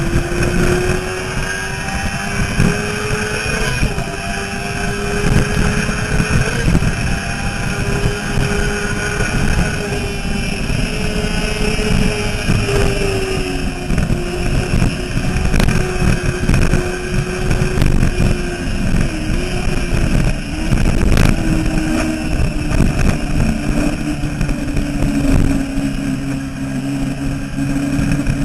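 Yamaha R6's 600 cc inline-four engine running at high revs at track speed, its pitch holding high with small rises and falls and a brief dip about two-thirds through. Heavy wind rush buffets the bike-mounted microphone.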